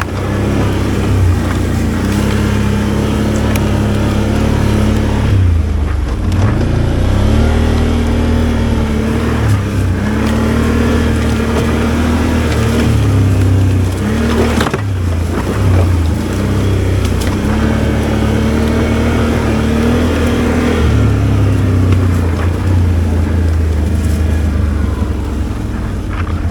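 V-twin ATV engine running in low gear at trail speed, its pitch rising and falling as the throttle is worked on and off. It eases off briefly twice, about six seconds in and again near the middle.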